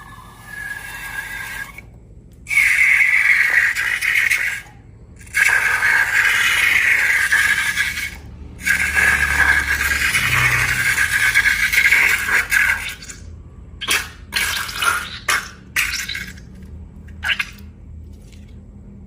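Runny liquid for slime pouring out of balloons in three long streams of a few seconds each, then a string of shorter spurts near the end.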